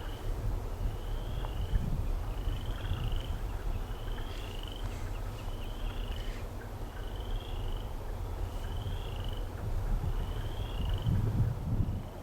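A small animal's short, high two-part call, repeating every second or two over a steady low rumble.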